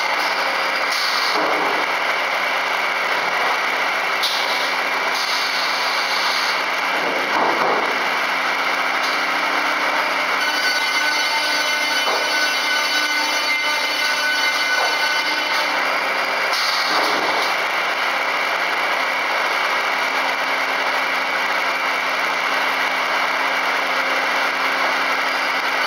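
FKD 500 double-arbor circular saw running steadily, with a constant mechanical hum and whir. The sound dips briefly in pitch three times.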